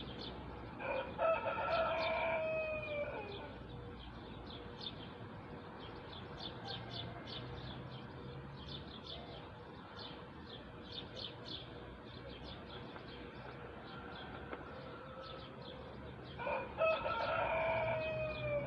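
A rooster crowing twice, each crow about two seconds long and falling in pitch at the end, the first about a second in and the second near the end. Small birds chirp quickly throughout.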